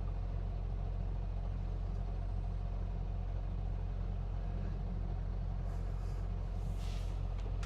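Semi truck's engine running, a steady low hum heard from inside the cab, with two brief hisses near the end.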